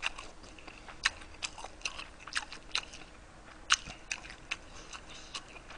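A person chewing food close to the microphone, making a string of soft, irregular wet clicks and smacks with no talking.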